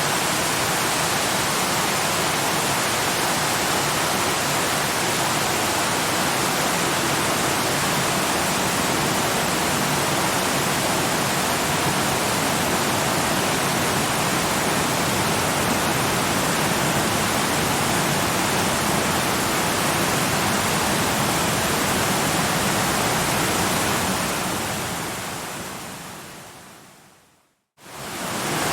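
Waterfall rushing, a steady even roar of falling water. Near the end it fades out to a moment of silence and then fades back in.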